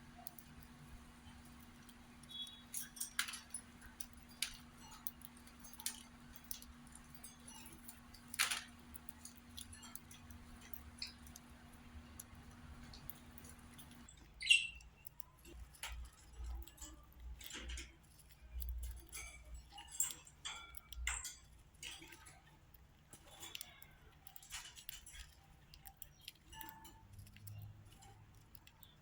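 Young budgerigar moving about its cage: scattered small clicks, taps and light rattles, with one short chirp about halfway through.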